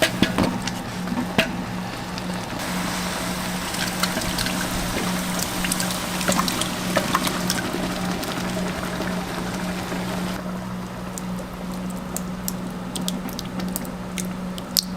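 Street-food cooking: a steady frying hiss over a constant low hum, with scattered clicks of utensils. The hiss drops away about ten seconds in, leaving the hum and a few sharp clicks.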